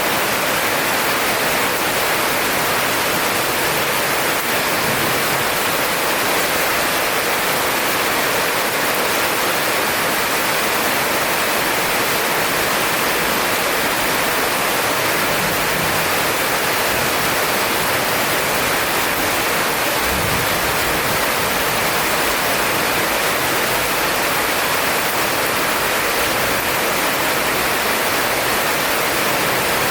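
Heavy rain falling in a dense, steady hiss that does not let up, with no thunder.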